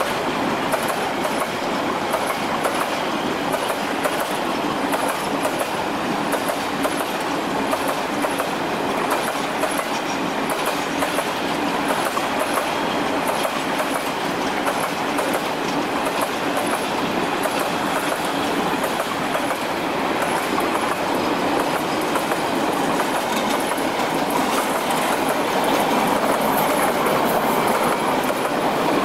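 Metre-gauge freight wagons rolling past at steady speed: a continuous rumble of steel wheels on rail with a rhythmic clickety-clack over the rail joints. It grows somewhat louder near the end as flat container wagons and hoppers go by.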